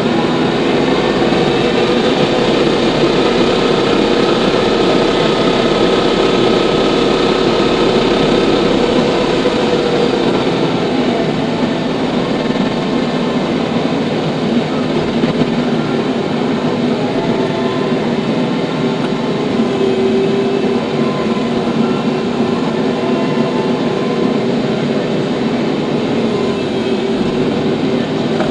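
TYM T574 tractor's diesel engine running steadily, with a constant mechanical drone.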